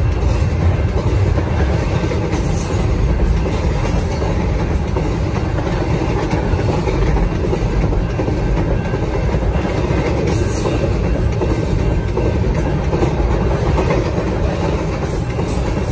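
Doublestack intermodal train's loaded container well cars rolling by: the steady noise of steel wheels running on the rails, even in level throughout.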